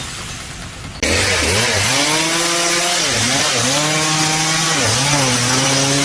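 A small motor or engine running at speed, its pitch sagging briefly and recovering about four times, as if it is loaded and freed in turns, after a second of faint hiss.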